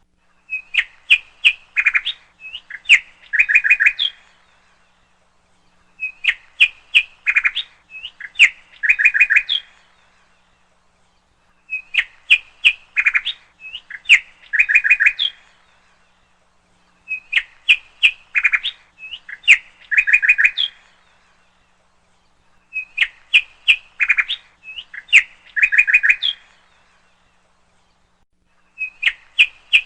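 A songbird singing: a phrase of quick chirps and short trills, about three to four seconds long, repeated about every five to six seconds in much the same pattern each time.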